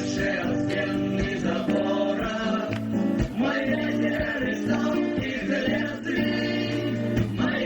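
A band playing a song, with singing over guitar.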